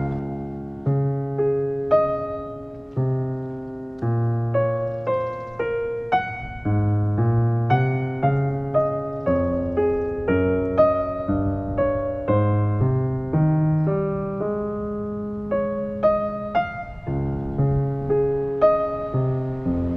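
Solo piano music: single notes and chords struck one after another, each left to ring and fade.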